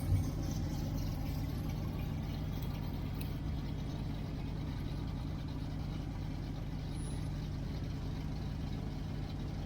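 A vehicle engine runs steadily with a low, even drone, and there is a single brief thump right at the start.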